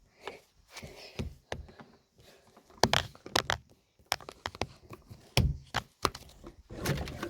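Irregular knocks, clicks and rustling of something being handled and opened, with several sharper thuds about three seconds in and again around five to six seconds in.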